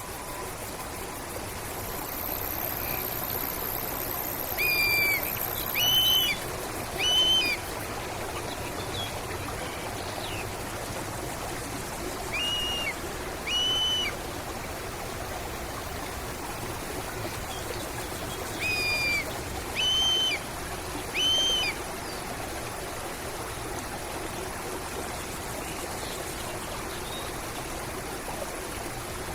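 Steady running water of a river or stream, with a bird repeating short whistled calls in groups of two or three, about a second apart.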